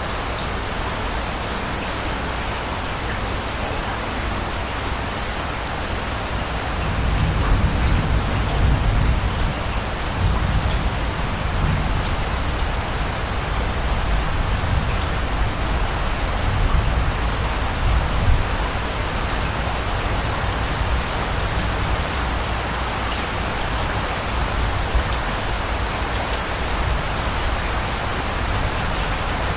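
Steady rain falling, with a low rumble of distant thunder that swells about seven seconds in and fades away over the next ten seconds or so.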